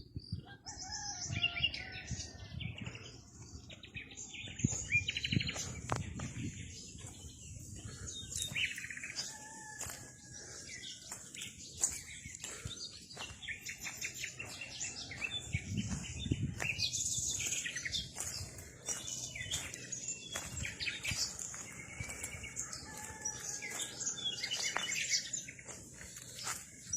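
Several birds chirping and singing, with many short overlapping calls and trills.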